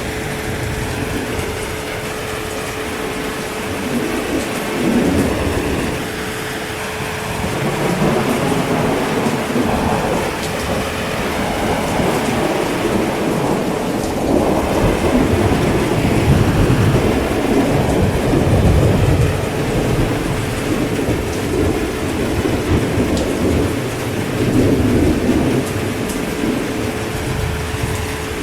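Steady heavy rain with rolling thunder that swells and fades in several long waves of rumble.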